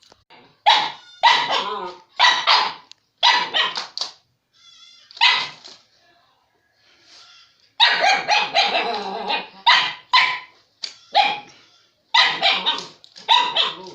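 Dog barking repeatedly: single barks spaced about a second apart, a short pause, then a quicker run of barks.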